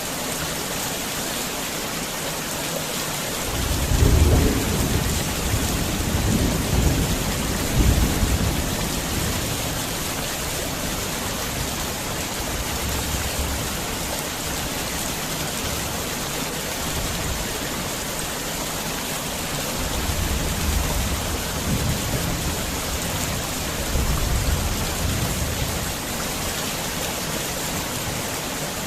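Steady heavy rain hissing, with thunder rolling in twice: a long, loud rumble about four seconds in and a weaker one about twenty seconds in.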